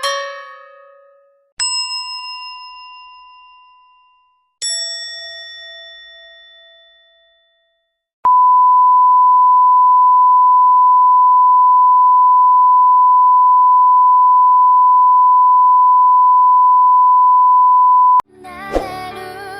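Two bell-like dings, each ringing out for about three seconds, the second lower-pitched, then a long steady pure-tone beep held for about ten seconds, the classic censor bleep sound effect. Near the end another musical sound effect begins.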